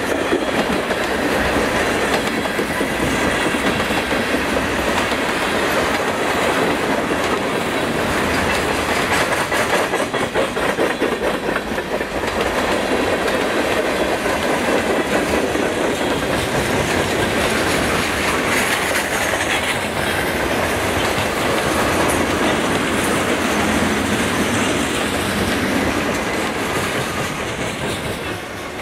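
Freight train of tank cars, boxcars and hopper cars rolling past, a loud, steady rumble with steel wheels clattering over the rail joints, beginning to fade near the end.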